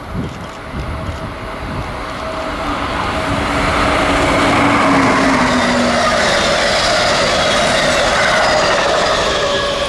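Passenger train running past on the tracks, its rumble and rail noise building over the first few seconds and staying loud, with faint steady whining tones that sag slightly in pitch.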